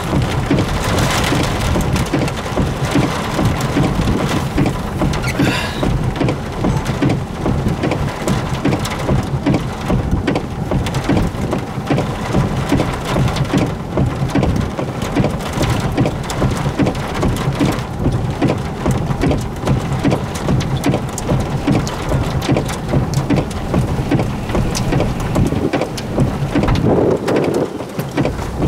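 Rain hitting a vehicle's roof and windows: dense, fast pattering over a steady low rumble.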